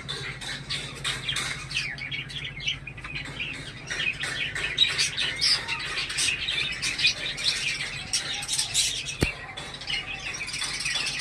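Cockatiels chirping and squawking, with many short calls overlapping throughout and one sharp click about nine seconds in. A faint low hum runs underneath.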